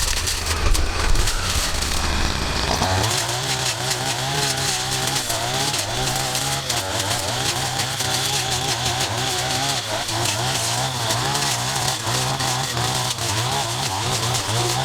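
Engine of gas-powered yard-clearing equipment running, its pitch wavering up and down, with a change in the sound about three seconds in.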